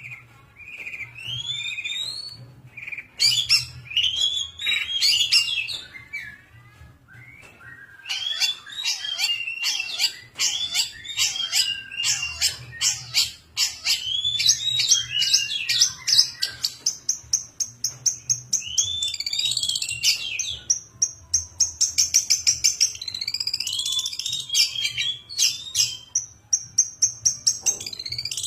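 A young long-tailed shrike singing freely, in a varied song of chirps, slurred whistled phrases and fast trills of rapidly repeated notes, with short pauses between bouts.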